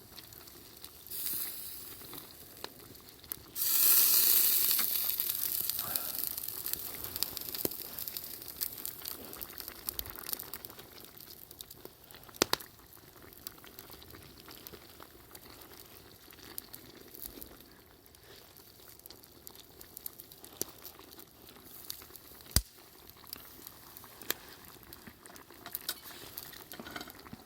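Pot of tonjiru simmering over a campfire, with the fire's wood giving scattered sharp pops and crackles. About three and a half seconds in, a loud hiss starts and fades away over several seconds.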